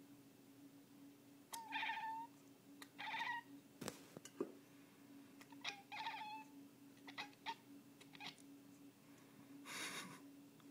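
Domestic cat excited by birds, making short chirping, meow-like calls: three main calls, each falling in pitch, with quick clicking chatters between them.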